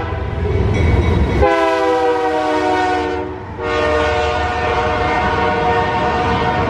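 Freight locomotive's multi-chime air horn, on an eastbound BNSF train led by a GE Dash 9, sounding in long blasts: one ending about a second and a half in, a second running to about three and a half seconds, and a third held on. A low engine rumble sounds under the first blast.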